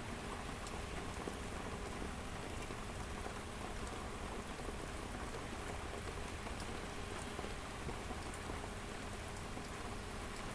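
Steady rain falling and pattering on surfaces, with faint scattered ticks of single drops.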